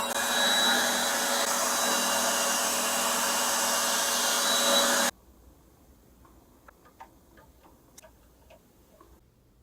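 A small electric power tool running with a steady whirring hiss, cut off abruptly about five seconds in, followed by faint light clicks and taps.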